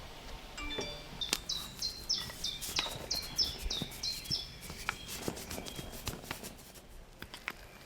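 A songbird singing a rapid run of short, high notes, each dropping in pitch, for about three seconds. Scattered sharp clicks and knocks are heard throughout.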